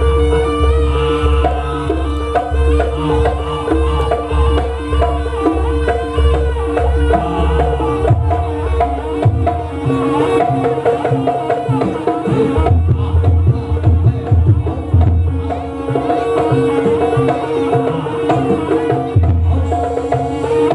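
Live jaranan music from a Javanese ensemble: hand drums play a busy pattern over deep, evenly spaced bass beats, with a held tone and a melody above. The deep beats drop out about eight seconds in and return a few seconds later.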